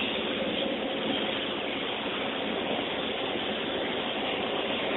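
Steady road and engine noise heard from inside a moving 2003 Chevrolet Impala, an even rushing hiss with no distinct knocks or changes.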